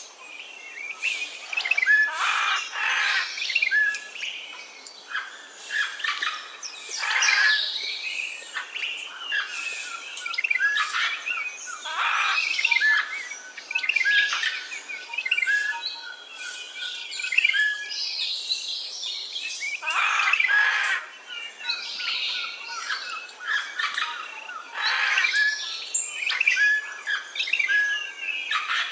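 Several wild birds chirping, trilling and calling over one another in a continuous dawn-chorus-like mix of short, high notes and whistles.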